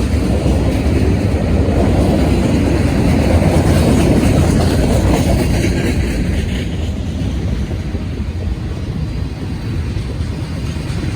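A train passing close by, with a steady rolling rumble. It is loudest about four seconds in and then eases off a little.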